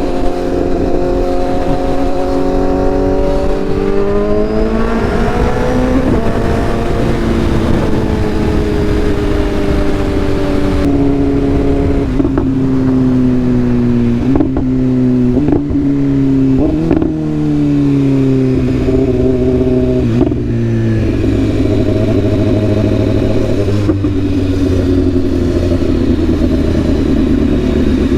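Sport motorcycle engine heard from the rider's seat: the revs climb about four to six seconds in, then ease off, and around the middle the pitch steps up sharply several times in a row, as on downshifts, before the engine settles into steady running.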